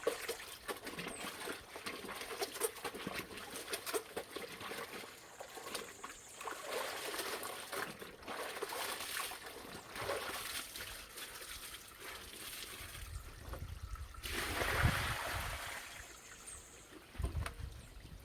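Water trickling and splashing from a pipe, with scattered small splashes and knocks. In the second half, gusts of wind rumble on the microphone, loudest about fourteen seconds in.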